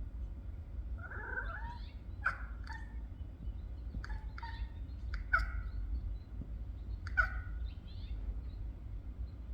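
A series of short animal chirping calls, about eight of them scattered over several seconds, over a low steady rumble.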